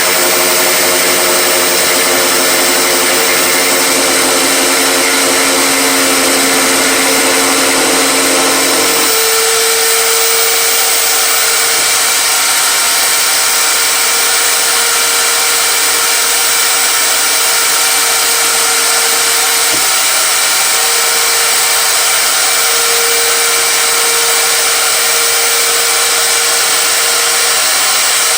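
An electric power tool motor running continuously. About nine seconds in its sound changes: the lower hum drops away, leaving a steady whine.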